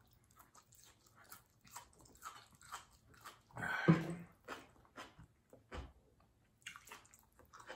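Close-miked chewing and mouth sounds of eating cooked asparagus and salmon: many soft, scattered clicks and smacks, with one brief louder voiced sound about four seconds in.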